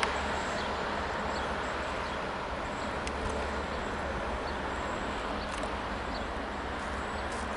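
Steady low rumble and noise of a diesel train at the station.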